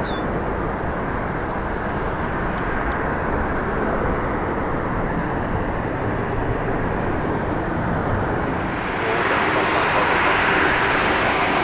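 Jet airliner engines, a steady rushing noise. About nine seconds in it changes abruptly to a louder, brighter jet noise.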